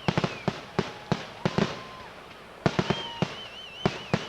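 Fireworks going off in quick succession: a rapid string of sharp bangs, overlaid with the whistles of whistling fireworks. One whistle holds steady a little after a second in, and a higher one wavers up and down over the last second or so.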